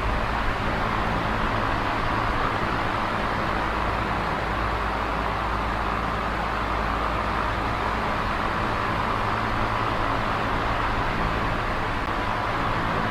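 Small oscillating electric fan running steadily: an even whir of moving air over a low motor hum, the whir swelling and fading slightly and slowly.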